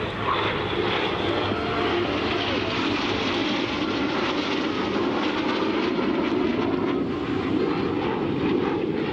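Jet noise from BAE Hawk T1 jets and their turbofan engines flying a display overhead: a steady rushing sound that swells slightly about a second in and holds.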